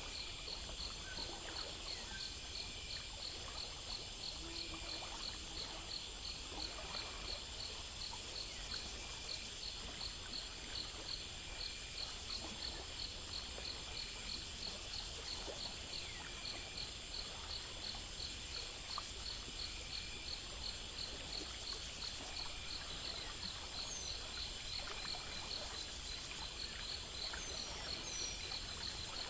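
Night insect chorus: crickets chirping in an even, rapid pulse over a steady background hiss, with a few faint higher chirps near the end.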